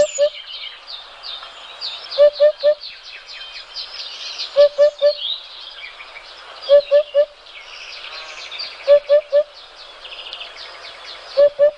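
Birdsong: a dense chorus of small birds chirping and trilling, with a lower call of three short quick notes repeated about every two seconds.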